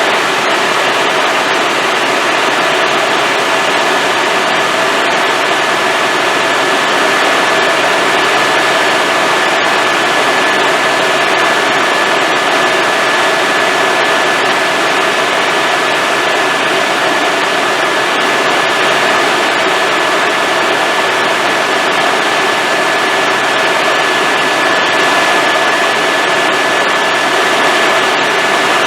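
Helicopter in flight heard from inside the cabin: loud, steady engine and rotor noise with a constant high whine running through it.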